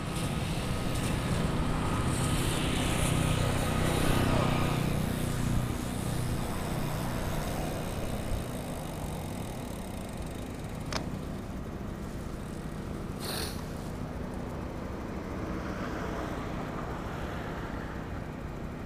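A motor vehicle's engine is heard passing close by during a city bicycle ride, loudest in the first few seconds, then fading into steady road and wind noise. Two sharp clicks come later on.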